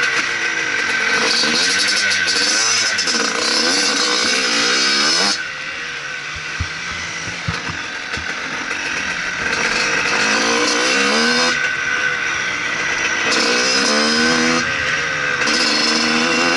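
Motocross bike engine revving hard, its pitch climbing and dropping again and again as the throttle opens and closes. About five seconds in it falls to a quieter, lower note for a few seconds before revving up again.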